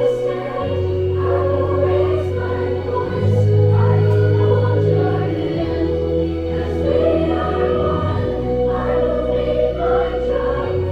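A choir singing a slow song over sustained low keyboard chords that change every two to three seconds.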